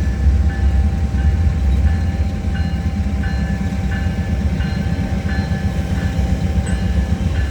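Train rumbling past at close range, with a grade-crossing bell dinging steadily about every two-thirds of a second.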